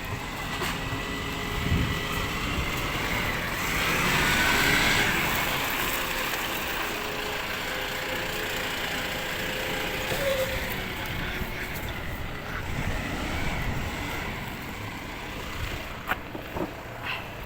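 Recycling rubbish truck running, with a louder rush of noise about four to five seconds in and a few sharp knocks near the end.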